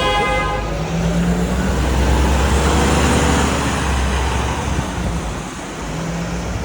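City street traffic: a short car-horn toot right at the start, then a heavy motor vehicle rumbling past, loudest around the middle, with tyres hissing on the wet road.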